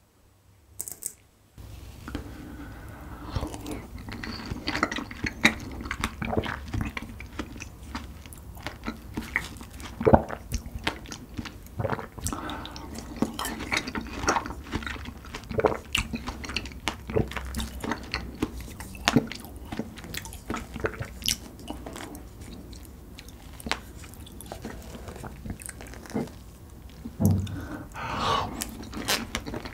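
Close-miked eating sounds: a man biting into and chewing large Nutella-dipped strawberries, with wet mouth sounds and many small clicks. The sounds start about a second and a half in, after a brief silence.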